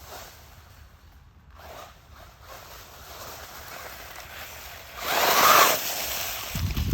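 A 1/14-scale 4WD RC truck (Hyper Go 14209) driving over leaves, rocks and dirt, a rasping, scratchy noise that grows to its loudest for about a second around five seconds in as the truck comes up close. A low rumble follows near the end.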